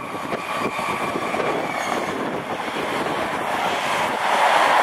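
Belgian electric multiple unit running past on the platform line: a steady rumble of wheels on rail with a thin high whine in the first couple of seconds, growing louder near the end as the train comes close.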